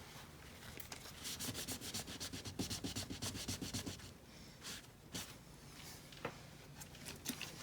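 A rag rubbed quickly back and forth over a truck's painted body panel, wiping off leftover adhesive residue before a badge goes on. A fast run of short scrubbing strokes lasts about three seconds, followed by a few single wipes.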